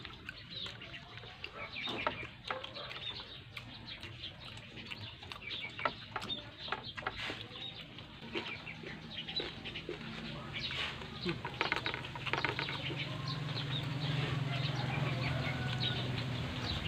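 Chickens clucking, with scattered short clicks like spoons on plates. A low steady hum builds from about halfway through.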